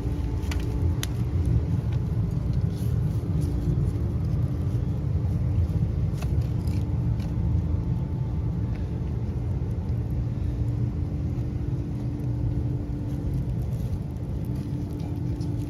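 Street-cleaning machine running steadily, sweeping and washing the pavement: a continuous low rumble with a steady hum over it.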